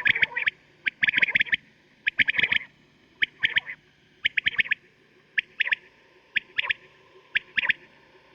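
Quail calling, repeating a short phrase of two to four quick, sharp notes about once a second, eight phrases in all, the later ones shorter.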